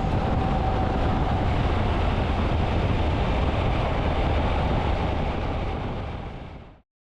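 Steady riding noise of a Triumph Tiger 800 motorcycle on the move, wind and engine heard through the rider's camera microphone. It fades out and goes silent near the end.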